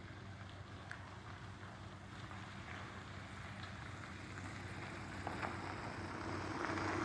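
Steady low engine hum with a rushing noise over it, slowly growing louder toward the end.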